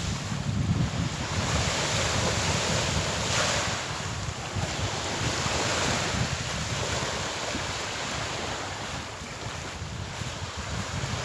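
Calm sea waves washing onto the shore, a continuous surf noise that swells and eases every few seconds, with a low rumble that may include wind on the microphone.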